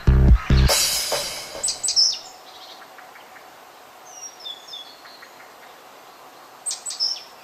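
A thumping electronic dance-music beat stops about half a second in and a wash of noise fades away, leaving quiet hiss with songbirds chirping briefly a few times.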